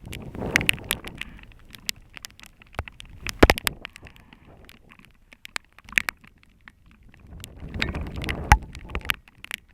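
Heavy rainstorm: irregular sharp taps of big raindrops striking close by, with one louder knock in the middle. Gusts of wind buffet the microphone about half a second in and again near the end.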